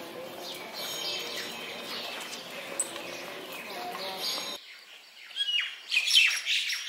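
Birds chirping over the low murmur of a crowd. After an abrupt cut, a bird calls loudly in a quick run of short, falling chirps near the end.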